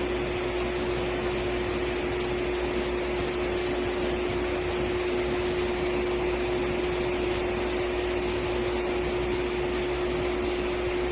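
Steady machine hum with one constant droning tone and a rushing noise, unchanging throughout.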